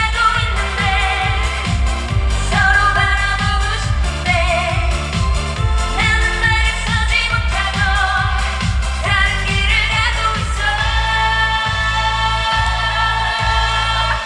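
Live trot song from a medley: a female singer over an amplified backing track with a fast, driving beat. About eleven seconds in, the beat drops out under long held notes.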